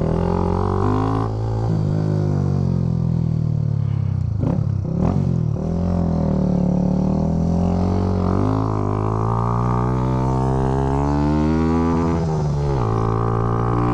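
Small motorcycle's engine pulling away and accelerating through the gears, its pitch climbing steadily and dropping back at each upshift, a few times over.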